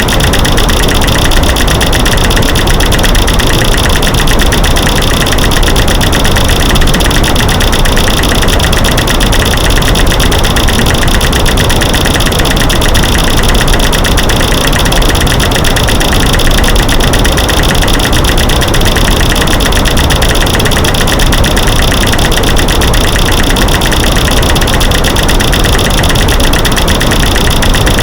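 A loud, unbroken stream of rapid clicks and knocks made from mixed recordings of light switches clicking, sticks breaking and rocks banging together, layered over a steady white-noise hiss.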